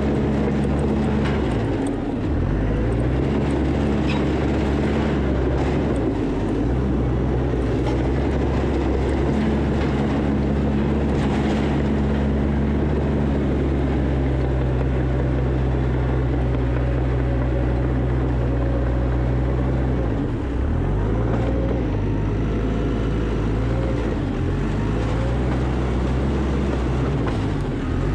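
Diesel engine of heavy earthmoving equipment running steadily, its pitch dipping briefly several times as it bogs under load and recovers.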